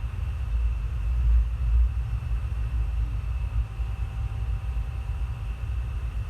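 Steady low rumble of a moving passenger train, heard from on board the coach.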